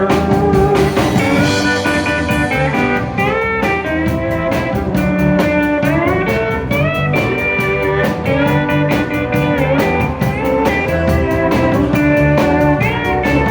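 Live country band playing an instrumental break: a lead guitar solo with upward string bends over bass and drums keeping a steady beat.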